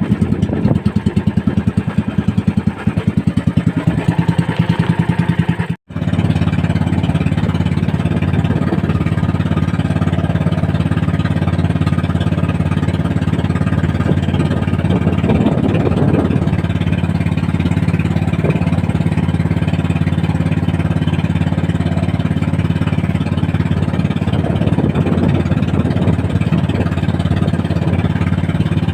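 Small boat's engine running steadily at cruising speed, with a momentary break in the sound about six seconds in.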